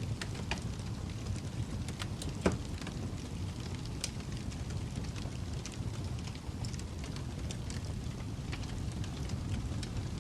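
Wood fire crackling in a fireplace: a steady low rumble of flames with scattered small pops and snaps, one sharper pop about two and a half seconds in.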